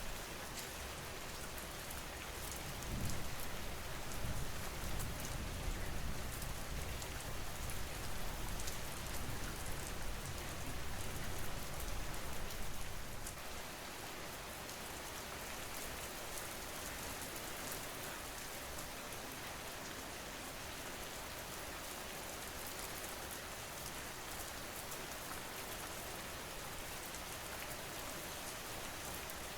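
Steady rain falling, an even hiss. A low rumble of thunder rolls under it from about three seconds in and fades out after about ten seconds.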